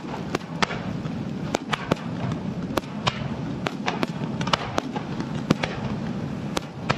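Fireworks going off in quick, irregular succession: many sharp cracks, roughly two or three a second, over a steady background rumble.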